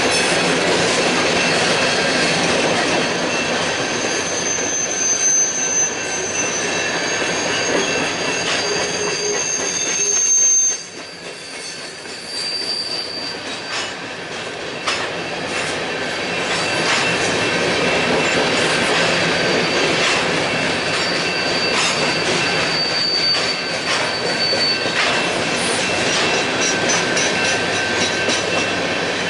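Freight train cars rolling past at track level, wheels squealing in high thin tones that come and go over the steady rumble and clatter of the train.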